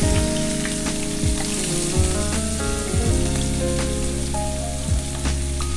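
Freshly added chopped onion sizzling and frying in hot oil in a kadhai, a steady hiss, over soft background music.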